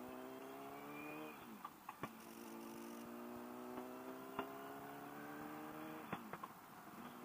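Honda CBR1000RR's inline-four engine, fitted with an aftermarket exhaust, pulling on the road, faint: the revs climb steadily, drop sharply about a second and a half in, climb again, and drop once more near the end.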